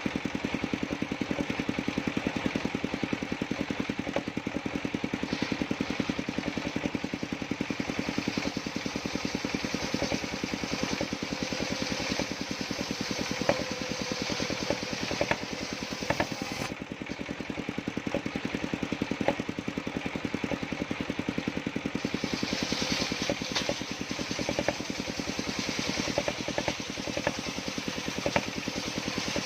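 Engine of a circular-saw sawmill running steadily with a fast, even beat. About three-quarters of the way through, a higher hiss joins it.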